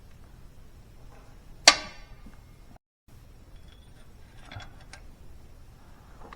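A single sharp clank that rings briefly, followed a few seconds later by a few faint clicks.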